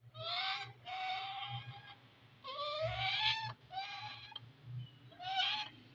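Pet parrot giving five drawn-out, slightly rising cries in a row, somewhat like a cat's meow.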